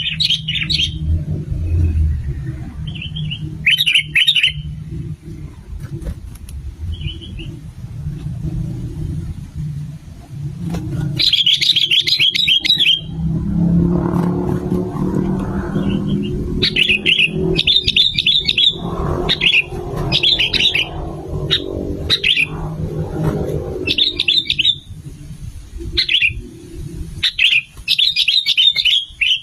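Sooty-headed bulbul (kutilang) calling in short bouts of quick chattering notes, repeated again and again. A steady low rumble runs underneath and swells in the middle.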